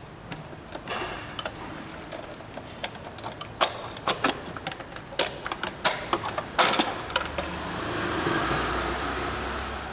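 Sharp clicks and metallic knocks of hand tools working on an engine's top cover, with a steady mechanical whirr growing in the last few seconds.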